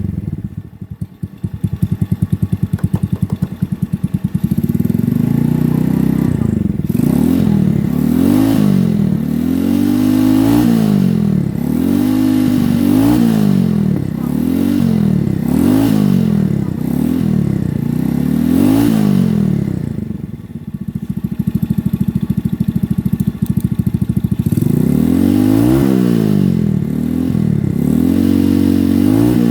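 Yamaha Vega R New's bored-up 123cc single-cylinder four-stroke engine through a Ronin Katana SE aftermarket exhaust, idling at first, then blipped up and down about once a second. About twenty seconds in it drops back to idle briefly, then the revving starts again.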